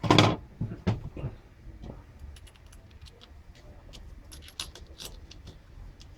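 Hard objects being handled on a work surface: a loud knock, two lighter knocks about a second in, then a run of small metallic clinks.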